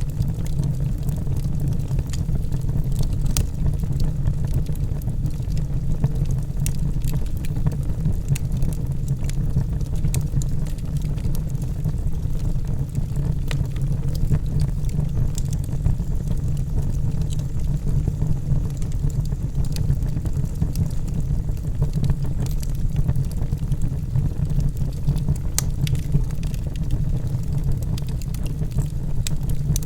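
Logs burning in a fireplace: a steady low rumble of flames with scattered sharp crackles and pops.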